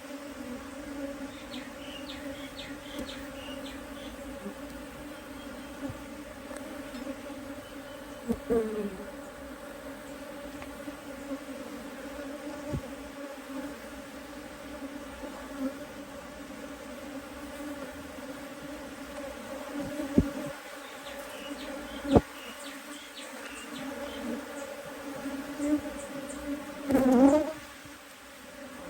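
Steady hum of a honeybee colony buzzing in an open hive, with two sharp knocks in the second half and a louder buzz that swells and bends in pitch briefly near the end.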